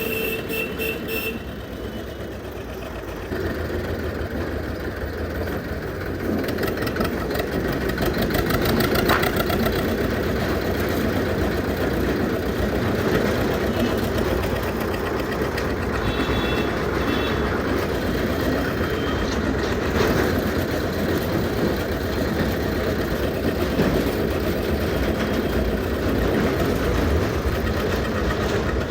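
Old Zetor tractor's diesel engine running with a steady, fast knocking beat, growing louder a few seconds in.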